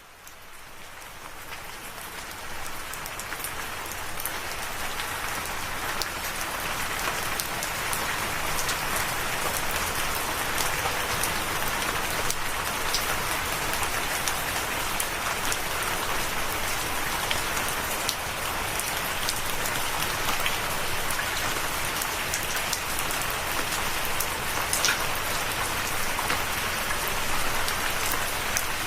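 Steady rain falling, with many single drops landing as sharp little ticks over the rush. It fades in from silence over the first few seconds.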